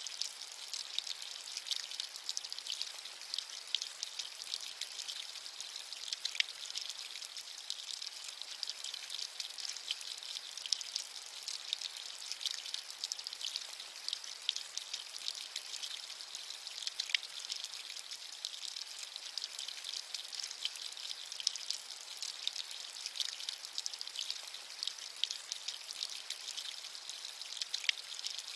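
Steady rain with many small drops pattering, a bright, thin hiss with no low rumble and no thunder.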